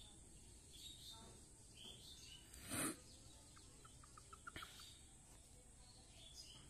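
Faint, scattered high chirps from birds. A brief loud rustling noise comes a little under three seconds in, and a quick run of about six clicks follows about a second and a half later.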